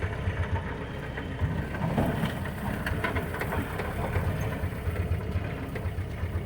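Old Jeep's engine running at low speed while it crawls over rough ground, a steady low rumble with scattered knocks and rattles from the body.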